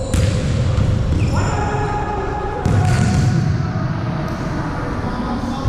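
Volleyball struck hard twice, about two and a half seconds apart, each hit ringing out in the hall's echo over steady background noise.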